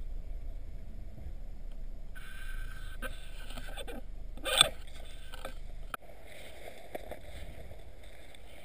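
Car engine idling with a steady low rumble, broken by a single sharp pop about four and a half seconds in.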